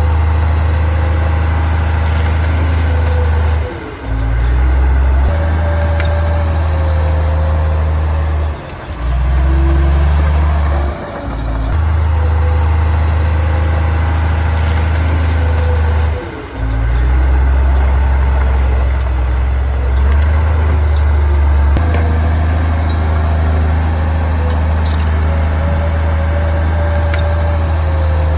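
Bulldozer's diesel engine running hard, its low note stepping up and down as the load changes, with brief drops in loudness four times. A wavering whine sounds above it.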